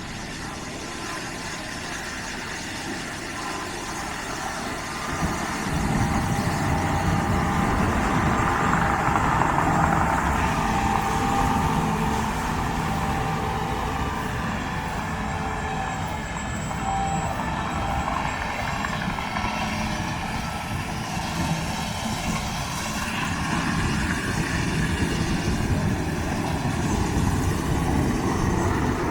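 Combine harvester running steadily while harvesting soybeans, with a low engine hum and a mid-pitched machine whine; it gets louder about five seconds in.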